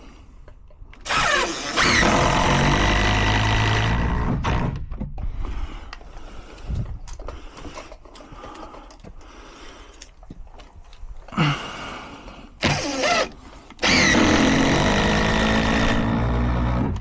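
Cordless power driver driving screws into timber: two long runs, each starting with a rising whine, and a couple of short bursts between them.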